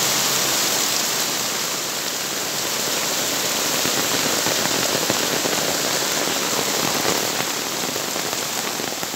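Heavy rain pouring down steadily on concrete pavement and parked cars, a dense even hiss of patter.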